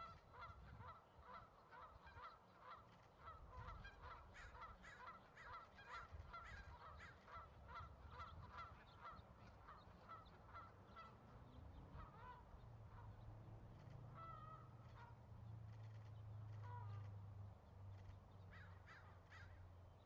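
A bird calling in a rapid, even series of short notes, about four a second, for roughly the first half, then only scattered calls. A low steady hum runs underneath in the second half.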